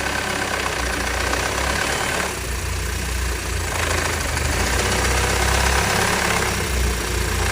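Audi EA888 inline-four engine idling with a rhythmic 'clang-clang' clatter from the top of the cylinder head. The mechanic says this noise from an EA888 is typically caused by camshaft wear, here excessive play at the intake camshaft's front timing-adjuster end.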